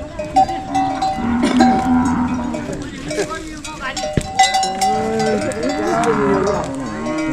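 Cattle bells clanking and ringing as the animals move about, with repeated metallic knocks throughout. A cow lows with a wavering call from about four and a half seconds in.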